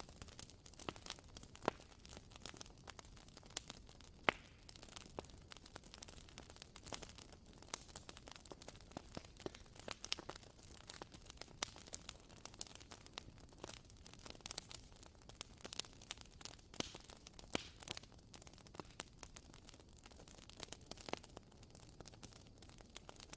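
Wooden candle wick crackling as it burns, like a tiny campfire: irregular soft pops and clicks, several a second, with a few sharper snaps.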